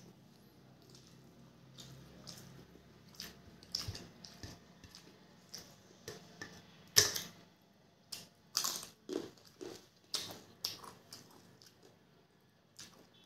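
Close-up eating by hand: irregular chewing and mouth clicks, with a sharp crunch about seven seconds in from a bite of crisp papad, then a run of crunchy chews.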